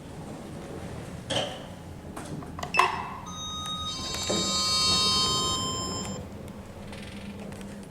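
Passenger lift in operation: two sharp clunks, then a cluster of steady high tones that swells and fades over about three seconds.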